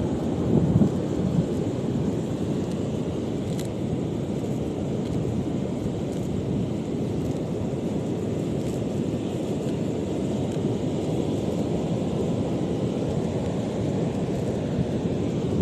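Wind buffeting the microphone in a steady low rumble, with sea surf washing underneath.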